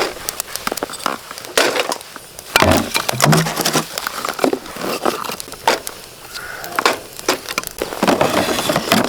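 Thick firewood being handled and broken up: a string of irregular sharp wooden cracks and knocks.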